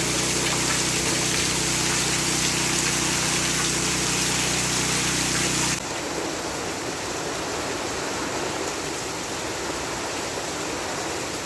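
Strong hurricane wind rushing as a steady wash of noise, with a steady low hum beneath it. About six seconds in the sound cuts abruptly to a slightly quieter rush of wind without the hum.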